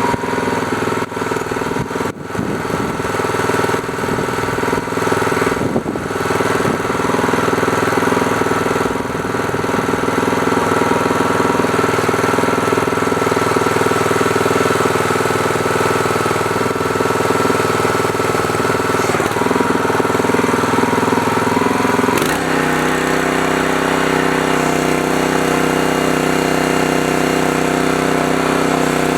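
Newly swapped small gasoline engine on a hydraulic log splitter idling just after a choked cold start, run to circulate fresh 30-weight oil; it runs a little unevenly over the first few seconds, then steadies. About three-quarters of the way through, its note shifts suddenly.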